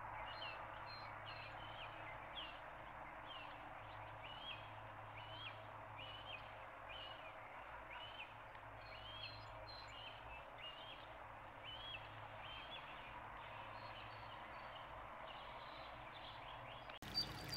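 Faint outdoor ambience with a bird giving the same short, high chirp over and over, a little more than once a second.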